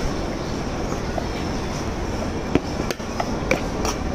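Steady rumble of a train at the station. In the second half come several sharp clinks of a metal spoon against the vendor's mixing bowls.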